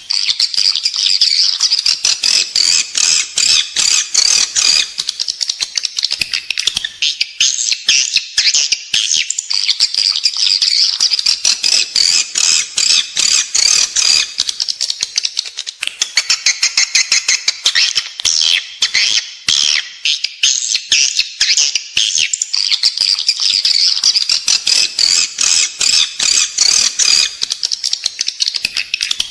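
Edible-nest swiftlet calls: a dense, continuous chatter of rapid clicking chirps and twitters. This is the kind of 'inside-the-building' lure sound played in swiftlet houses to draw the birds in to roost and nest.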